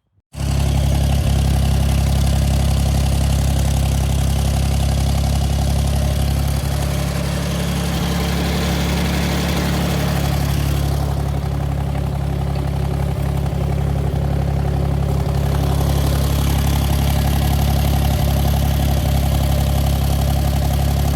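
Tractor engine running steadily at a constant speed, loud and even, coming in abruptly about half a second in.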